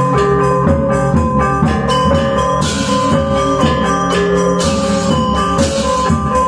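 Balinese gamelan gong ensemble playing: bronze metallophones ring with steady overlapping tones over a low drum and gong pulse, and bright crashing cymbals come in twice.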